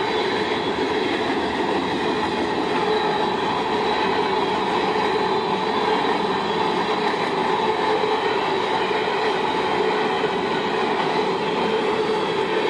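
Freight train of covered hopper and tank cars rolling steadily past a grade crossing, its steel wheels running on the rails in a continuous, even sound.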